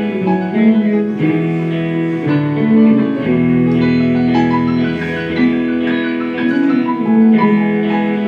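Instrumental band music: plucked guitar and mandolin melody over electric piano and held bass notes, in a light, folk-like arrangement.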